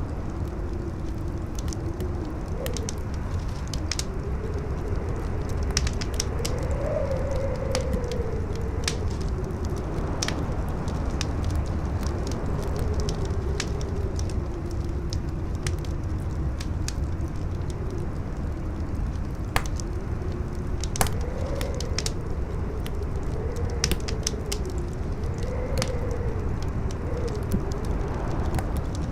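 Wind howling in a tone that slowly rises and falls, over a steady low rumble, with a wood fire crackling and popping throughout.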